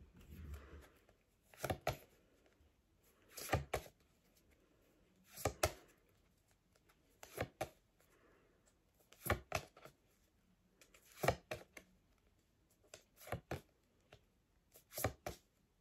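A pack of phonics flashcards being handled one card at a time: a short, soft card flick or tap about every two seconds, with quiet in between.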